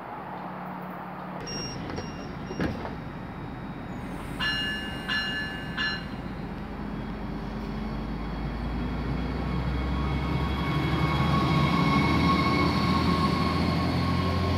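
NJ Transit River Line diesel light rail train (Stadler GTW) pulling out of the station. A clunk comes a few seconds in, then three short high signal tones. After that the diesel engine's rumble and a steady drive whine build as the train accelerates past.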